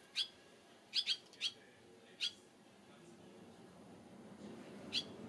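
A barn swallow giving about six short, sharp chirps, each a quick downward sweep, two of them in quick succession about a second in and the last near the end.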